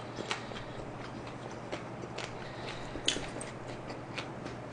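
Close-miked chewing of a mouthful of jalapeño cheese-fries pizza: soft, irregular mouth clicks and small crunches, one a little sharper about three seconds in.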